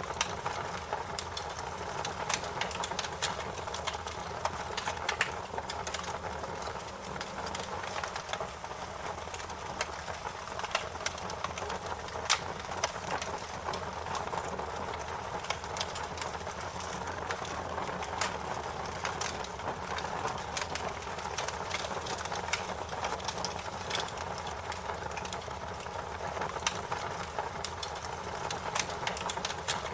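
Fire crackling, with many small sharp pops scattered over a steady rushing noise.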